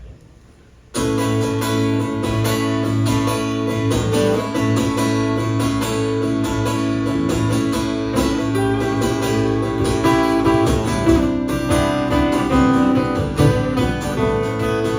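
Acoustic guitar strummed, starting suddenly about a second in: the intro of a song.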